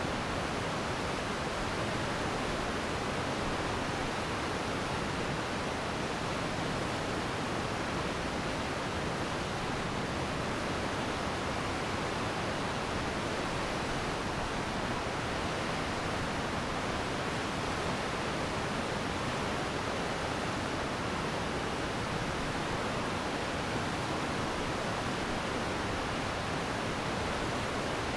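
Glacial meltwater stream rushing steadily, an even, unbroken water noise.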